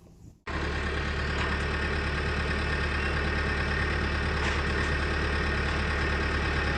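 Recorded sound effect of a heavy machine's engine idling steadily, with a strong low hum. It cuts in abruptly about half a second in.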